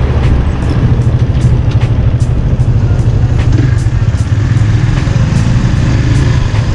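Small-displacement motorcycle engine running, a steady low rumble, with faint regular ticks about two or three times a second over it.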